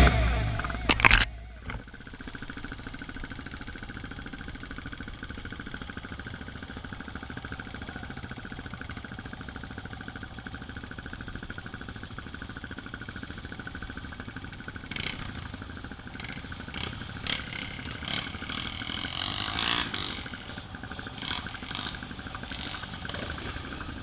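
Dirt bike engine idling steadily, with scattered clicks and knocks in the second half. Music cuts off about a second in.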